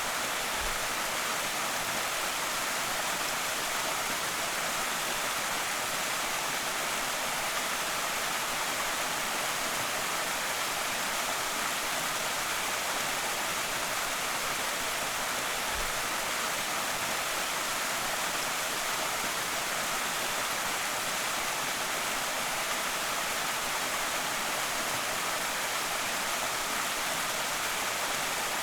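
Creek waterfall pouring steadily: an even, unbroken rush of falling water.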